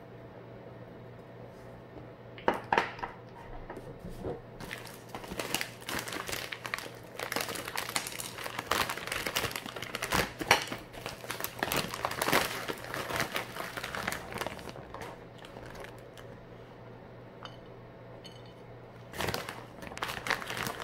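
Crinkling and rustling of packaging, with scattered clicks and knocks, while food is handled in a kitchen. It starts about two seconds in and runs until about fifteen seconds, then comes again briefly near the end.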